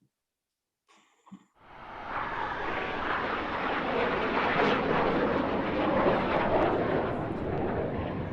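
Airplane flying past: a rushing engine noise that swells in from about a second and a half in, is loudest in the middle and starts to fade near the end.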